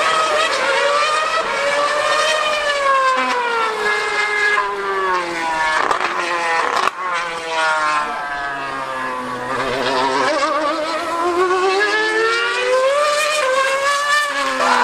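Formula One car's engine screaming at high revs, its pitch falling and rising several times as it runs through the gears and corners, with a brief cut about seven seconds in. The spectators take it for a 2013-era car.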